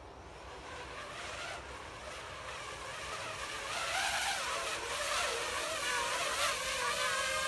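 DJI FPV drone's motors and propellers whining and getting louder, the pitch wavering up and down with the throttle from about halfway in.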